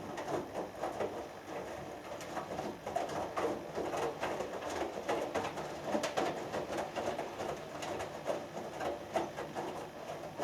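Hoover Dynamic Next washing machine in its main wash: the drum turns and wet laundry tumbles and sloshes in the water, with uneven soft knocks and swishes.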